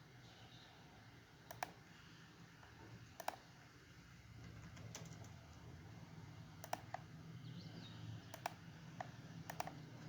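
Faint, scattered sharp clicks of a computer keyboard and mouse, about eight of them, a few in close pairs, over a faint steady low hum.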